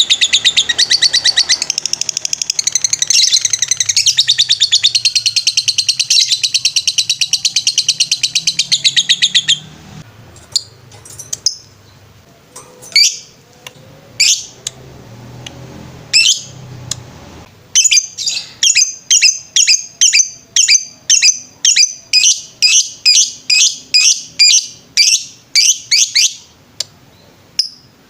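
Lovebird singing its long 'ngetrek' song: a loud, rapid, unbroken chattering trill for about the first third. It then breaks into scattered single sharp chirps. About two-thirds through comes an even run of repeated chirps, roughly three a second, which stops shortly before the end.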